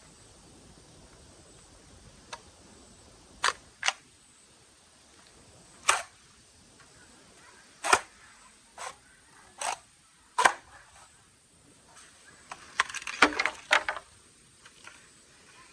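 Sharp clicks or snaps, about nine spaced irregularly a second or two apart, then a quick cluster of several a little before the end.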